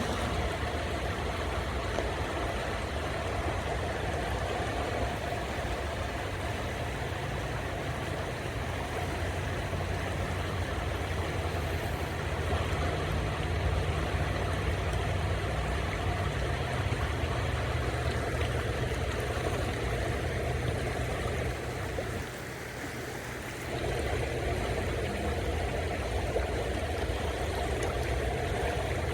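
Steady low rumble that dips briefly about three-quarters of the way in.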